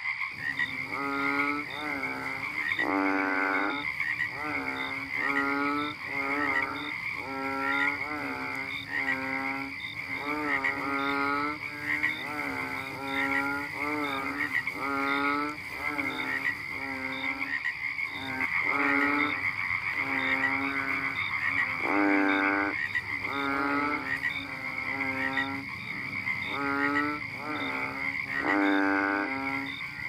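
Toad croaking in a long run of short, pitched calls, a little more than one a second, with a brief pause just after the middle and a couple of longer calls. A steady high-pitched drone runs underneath.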